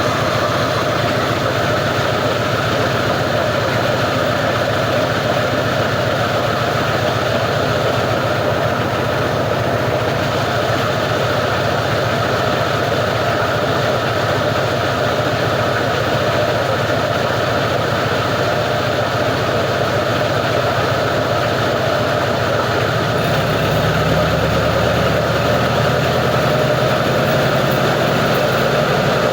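Plastic recycling grinder machine running with a steady, loud mechanical drone; its low hum shifts slightly near the end.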